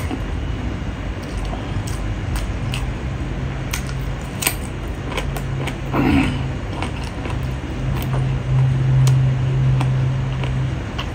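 Close-up eating sounds: chewing and small clicks of fingers working rice, with a crunchy bite of cucumber about six seconds in. A steady low hum runs underneath from about three seconds in, loudest near the end.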